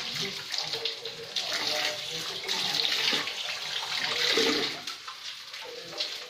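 Rice-powder-coated potato and banana pieces sizzling in oil on a flat griddle pan, with a spatula turning them.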